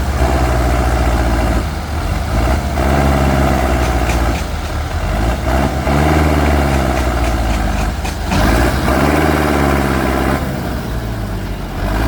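Tractor engine running under load, its revs rising and falling three times, about three seconds apart.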